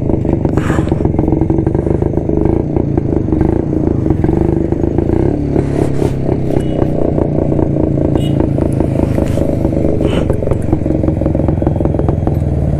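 1972 Jawa motorcycle's two-stroke engine idling steadily, a rapid, even exhaust putter.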